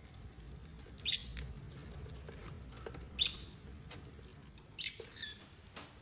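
Short, high bird chirps, four in all, each dipping slightly in pitch and spaced one to two seconds apart, over a faint low background rumble.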